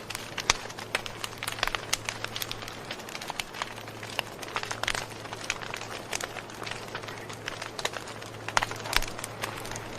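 Campfire crackling: burning wood giving off dense, irregular pops and snaps, with sharper pops just after the start and about nine seconds in, over a steady low hum.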